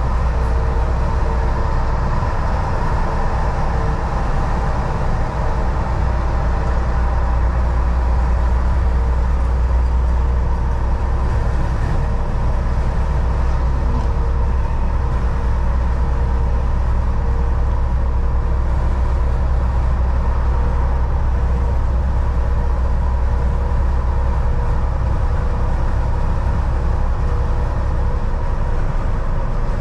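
Volvo VNL 760 semi truck cruising at highway speed: a steady deep diesel drone with tyre and road noise and a constant hum. The low drone eases slightly near the end.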